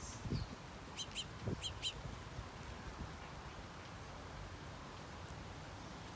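A bird calling four short, quick chirps at the feeder about a second in, with a couple of low thumps around them.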